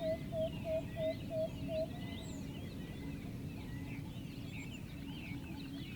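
Jungle bird chorus: many birds chirping, with a repeated low call about three times a second that stops about two seconds in.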